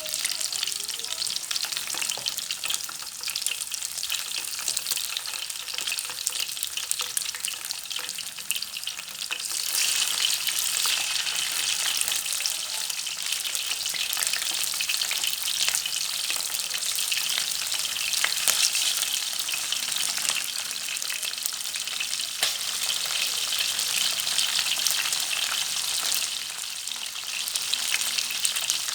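Small freshwater fish frying in hot oil: a dense, steady sizzle full of fine crackles, which grows louder about ten seconds in.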